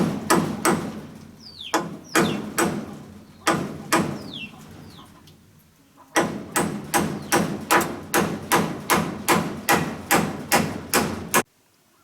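Repeated blows of a hand tool striking wood: a few short groups of strikes, then an even run of about three strikes a second that stops suddenly near the end. A bird gives a few falling, whistled calls in the first half.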